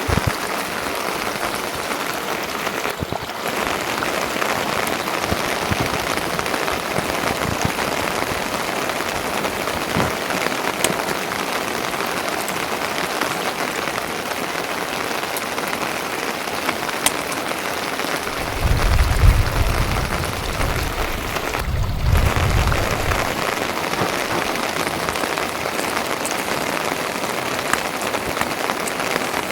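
Steady rain falling, a dense even hiss with scattered ticks of single drops. A low rumble swells up twice about two-thirds of the way through.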